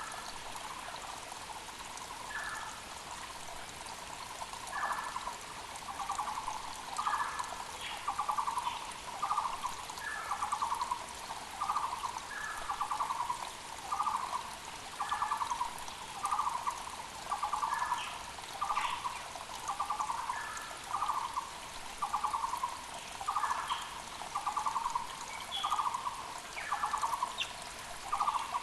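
A Taiwan barbet (Muller's barbet) calling a long run of evenly repeated notes, about three every two seconds, starting about five seconds in and growing louder. Under it runs the steady rush of a mountain creek, with short chirps from other small birds now and then.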